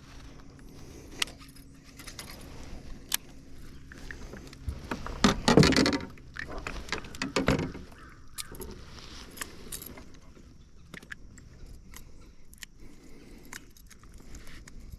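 Clicks and small metallic rattles of a fishing lure's hooks and tackle while a freshly landed bass is handled in a kayak, with louder knocks and rustling about five and a half seconds in and again around seven and a half seconds.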